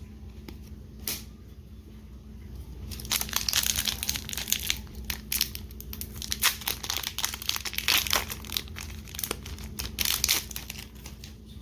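Pokémon TCG booster pack wrapper being torn open and crumpled by hand, a quiet start with a couple of clicks, then a dense run of crinkling and crackling from about three seconds in.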